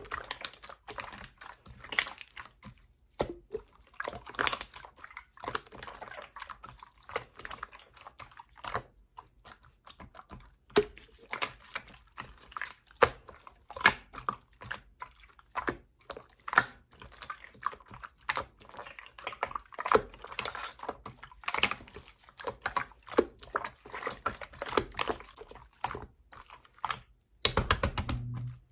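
Clear slime being squeezed and poked by hand, making an irregular run of sticky clicks. A louder handling noise comes near the end.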